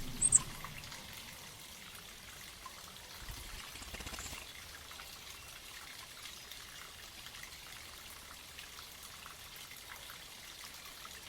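Water of a mountain spring trickling steadily. A brief high-pitched chirp sounds near the start.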